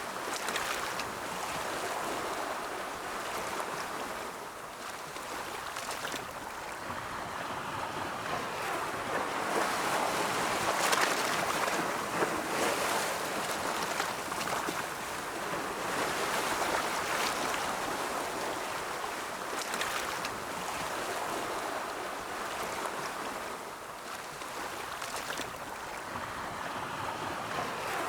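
Ocean waves rolling in and washing on a shore, a continuous surf wash that swells and ebbs over several seconds.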